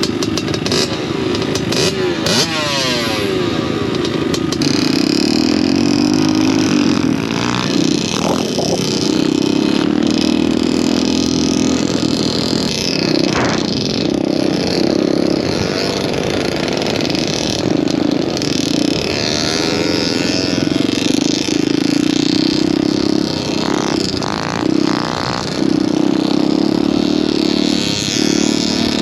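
Pit bike engines running and revving as the bikes ride, the engine note rising and falling with the throttle.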